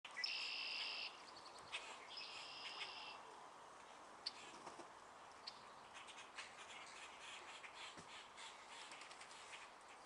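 A wild bird in a reedy wetland gives two harsh, buzzy calls about a second each, the second starting about two seconds in, followed by faint scattered chirps and ticks.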